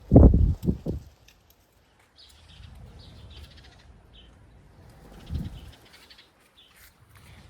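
Birds chirping faintly, with loud low thumps in the first second and another about five and a half seconds in.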